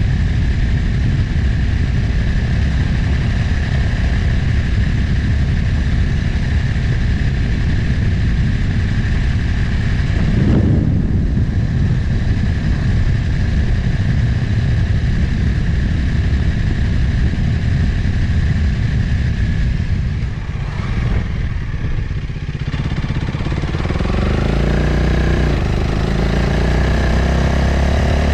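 Motorcycle engine running under way, mixed with heavy wind rush on the onboard microphone. About twenty seconds in the engine eases off, then it accelerates with a rising pitch through the last few seconds.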